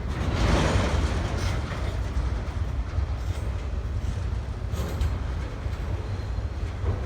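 Freight train rolling past: a steady low rumble of the cars, with scattered clicks and clatter from the wheels.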